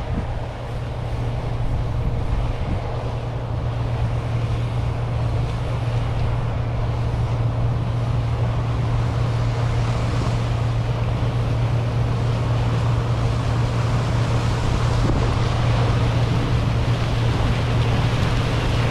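Heavy diesel farm machinery running at a steady speed: a constant low engine drone under a broad rushing noise, with wind buffeting the microphone.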